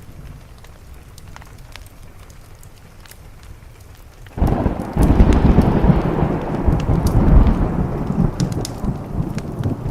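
A thunderclap breaks in suddenly about four seconds in and rolls on, slowly fading, over steady rain on a window and the scattered crackle of a wood fire.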